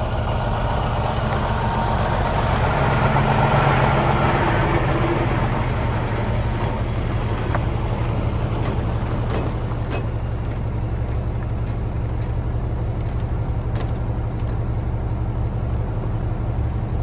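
Peterbilt semi truck pulling away under power, its diesel engine growing louder a few seconds in and then fading as it leaves, over a steady low engine hum.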